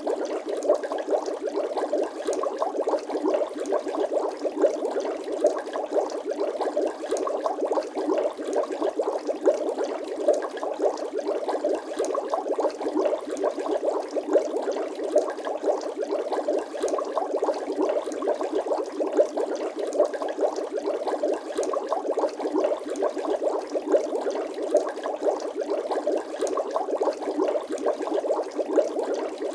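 Steady bubbling sound effect: a dense, unbroken stream of small water bubbles blipping and popping, thin-sounding with no deep rumble.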